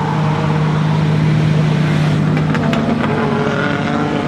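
A car engine running steadily at one engine speed, a loud even hum with a few faint clicks.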